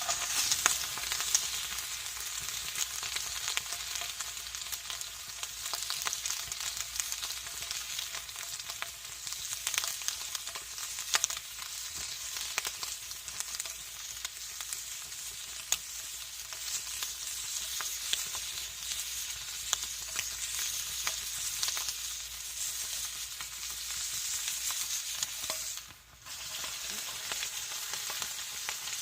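Bacon-wrapped Camembert frying in a pan over a campfire: a steady sizzling hiss with scattered pops and crackles. The sound briefly drops away about 26 seconds in.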